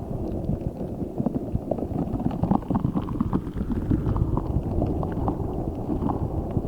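Giant spiky Orbeez-filled squishy ball squeezed and kneaded close to the microphone: continuous low squishing with many small clicks and crackles.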